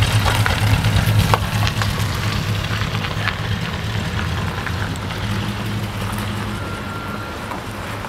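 Ice cream truck engine running with a steady low hum that slowly gets quieter, with a few light clicks over it.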